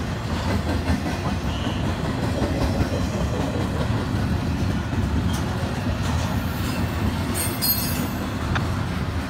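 Double-stack intermodal freight train's well cars rolling past at close range: a steady low rumble and clatter of steel wheels on rail. A brief high squeal comes near the end.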